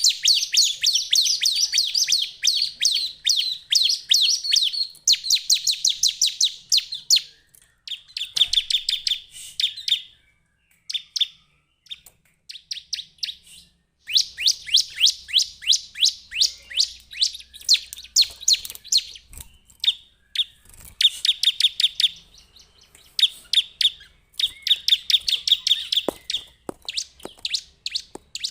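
Bar-winged prinia (ciblek) calling: fast chattering trills of sharp repeated high notes, about ten a second, in bursts of a second or two, with a pause of a few seconds about a third of the way in.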